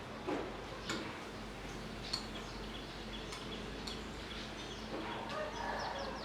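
Scattered short, sharp songbird call notes and clicks, a few spaced apart and then a denser cluster of notes near the end, over a low steady background hum.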